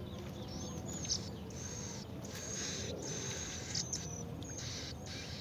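Birds calling: repeated thin, high-pitched whistled calls, each about half a second long, over a steady high hiss.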